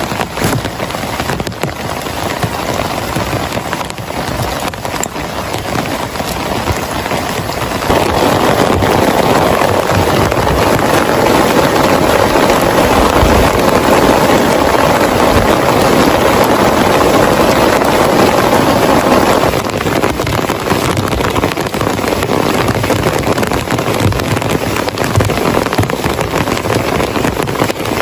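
Heavy rain falling steadily on a surface. It gets louder about eight seconds in and eases back somewhat about twelve seconds later.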